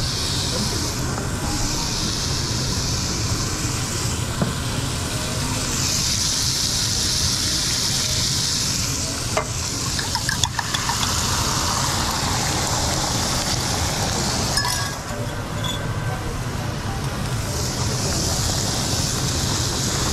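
Food sizzling on a hot griddle, the frying hiss swelling and fading in several surges over a steady low hum. A few sharp clicks sound about ten seconds in and again a little later.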